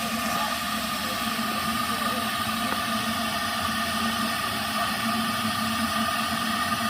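A steady mechanical whir with an even hum and hiss, unchanging throughout.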